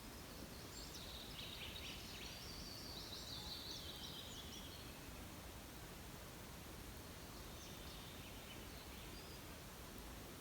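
Faint songbird chirping in quick high phrases over a steady background hiss: one long run of song in the first half and a shorter one near the end.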